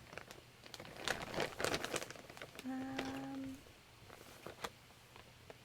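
Hands sorting through fabric and paper scraps in a container, a run of crinkling and rustling in the first two seconds. A short hummed 'mm' on one steady note about halfway through, then a few faint taps.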